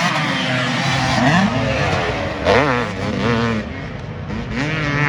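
Several off-road racing engines revving hard and dropping back as they shift, with a few pitches rising and falling at once. The loudest sweep, a sharp rise and fall, comes about halfway through.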